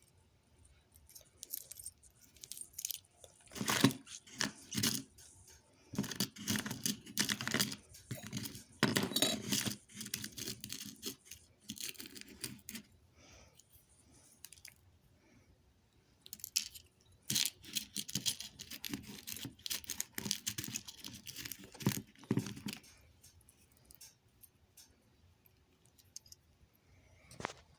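Irregular rustling and clattering of objects being handled close by, in several clusters with pauses between.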